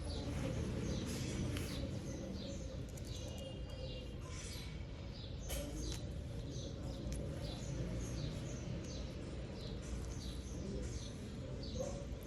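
Small birds chirping over and over, short falling chirps one or two a second, over a steady low background hum.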